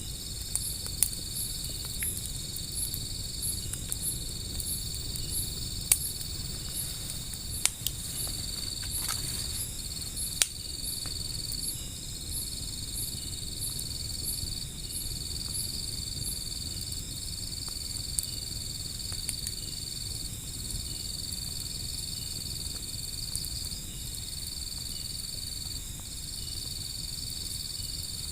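Crickets trilling steadily: one high continuous trill that breaks off briefly every couple of seconds, and a higher chirp pulsing two or three times a second. A handful of sharp pops, the loudest sounds, come mostly in the first half: crackles from a wood fire.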